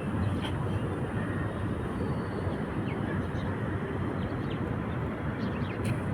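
Steady outdoor rushing noise, strongest in the low range, with a few faint short high chirps.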